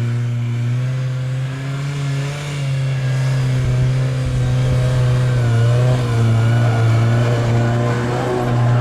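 Car engine running under load during off-road driving, holding fairly steady revs with the pitch rising and dipping slightly.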